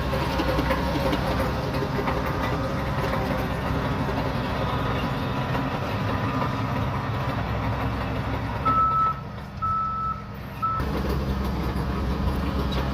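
Diesel engine of a Shantui DH17C3 crawler bulldozer running steadily under work. About two-thirds of the way in, a reversing alarm sounds three short beeps while the engine briefly drops away.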